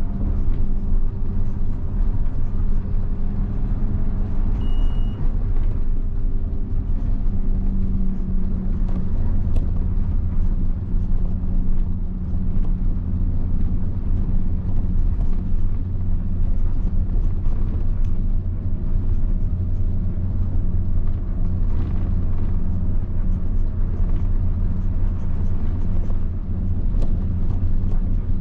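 Mitsubishi Fuso bus's 7.5-litre diesel engine running at a steady cruise with a low, even drone as the bus drives along.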